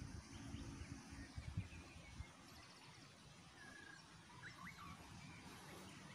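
Faint outdoor ambience with a few scattered bird chirps and a short trill. There are some low bumps in the first two seconds.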